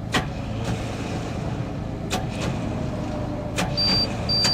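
Starter motor on an old GMC tow truck spinning without catching, with sharp clicks as it is keyed: its worn Bendix drive is not engaging the flywheel. From near the end, a dash warning chime beeps about twice a second over a steady low engine rumble.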